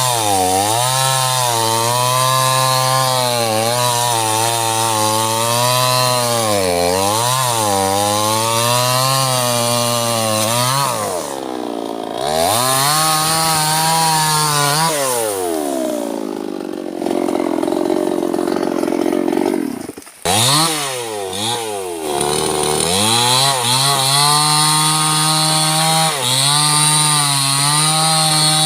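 Small two-stroke chainsaw cutting sengon wood, its engine pitch wavering as it bogs and recovers under load. In the middle it eases off for a few seconds and drops almost to silence for an instant, then revs back up and cuts steadily again.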